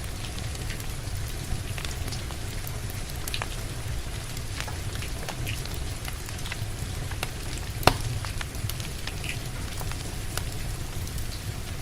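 Steady rain hissing with a low rumble, and a wood fire crackling over it in scattered sharp pops, one louder pop about eight seconds in.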